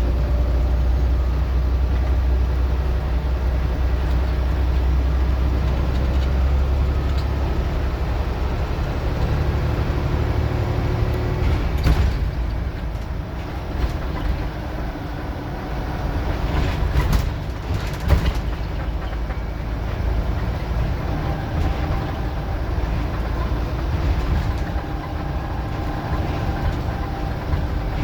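Scania N94UD OmniDecka double-decker bus running, its engine pulling hard with a deep drone that eases off after about ten seconds. The bus carries on at lighter load, with a few sharp knocks or rattles later on.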